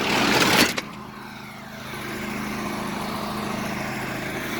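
A motor running steadily with a low, even hum, under a loud rushing noise that cuts off just under a second in.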